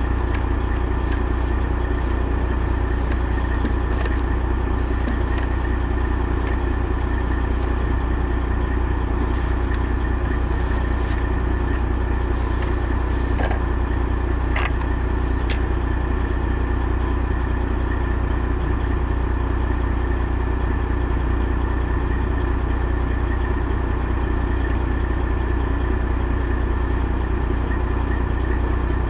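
Semi truck's diesel engine running with a steady low drone and a few light clicks in the first half.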